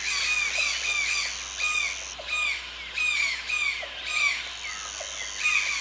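Toucan calling: a rapid run of short, arched squawks, about three a second, over a steady high buzz.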